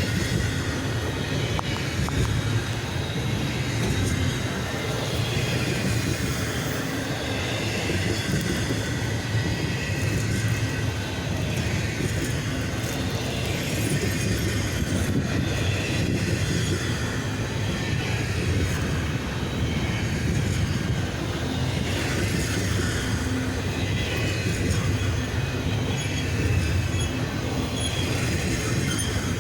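CSX double-stack intermodal freight train's cars rolling past: a steady rumble of steel wheels on rail, with faint high wheel squeal at times.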